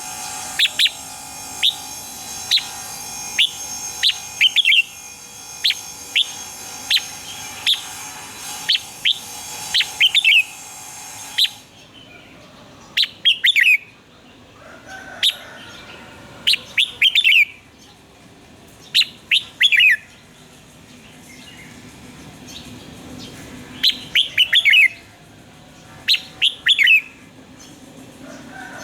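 Red-whiskered bulbul singing: short, sharp, whistled notes and quick clusters of falling notes, repeated every second or two. A steady hum and hiss under the first third of the song cuts off suddenly.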